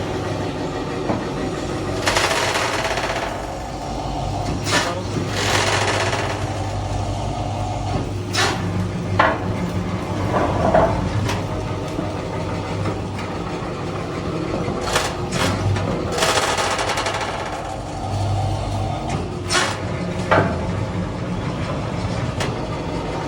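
Hydraulic press at work: its motor hums steadily, with sharp metal clanks here and there and three bursts of hissing lasting about a second each.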